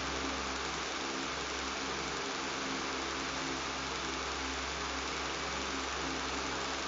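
Electric fan running steadily with a buzz: an even rush of air over a low, steady motor hum.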